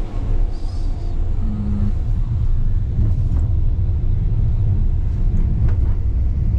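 Wuppertal Schwebebahn suspended monorail car running, heard from inside the cabin: a loud, steady low rumble that builds in the first second as the car gets under way.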